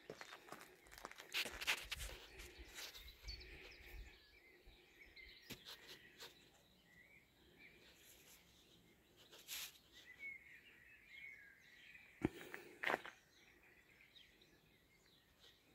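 Faint bird chirping over low outdoor background noise, broken by scattered short clicks and rustles, the sharpest about twelve to thirteen seconds in.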